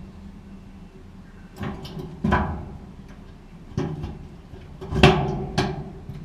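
Sharp knocks and clacks of a replacement dryer drive motor and blower-wheel assembly being handled and fitted into a GE gas dryer: five knocks, the loudest about two and five seconds in.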